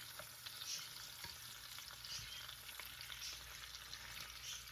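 Whole quail frying in hot olive oil in a clay pot, sizzling steadily with scattered small crackles as the birds brown.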